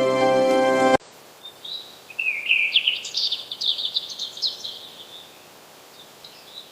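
Background music cuts off abruptly about a second in. It is followed by a bird singing a rapid twittering phrase of chirps and trills, loudest in the middle, with a few faint chirps near the end over a light hiss.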